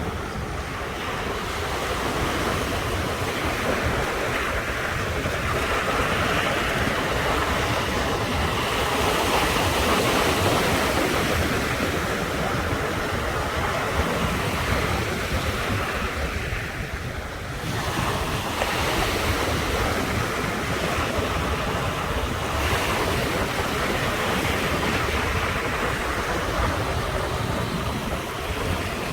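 Ocean surf washing continuously onto the shore, swelling louder about a third of the way in and easing briefly past the middle, with a low rumble of wind on the microphone underneath.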